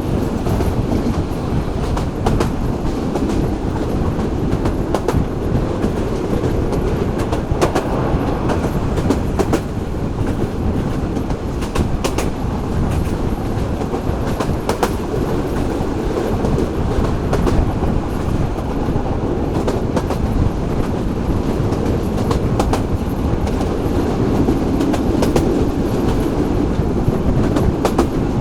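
Local train running along the track: a steady rumble of wheels on rail, with clicks at uneven spacing as the wheels pass over the rail joints.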